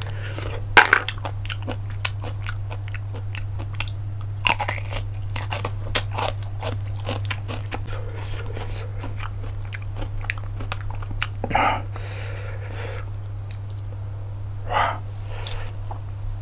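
Close-miked eating of cockles: chewing and biting with many quick sharp clicks and crunches, over a steady low hum.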